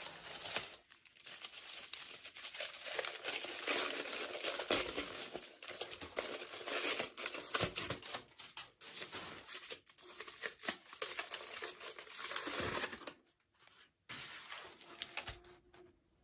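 Packaging crinkling and tearing as it is opened by hand, in a long run of crackling with a brief pause near the end.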